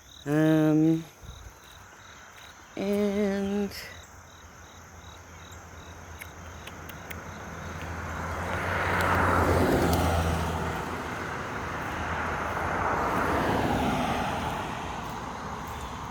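A vehicle passing by: a broad noise that builds slowly, is loudest about nine to ten seconds in, eases, swells again near fourteen seconds and then fades.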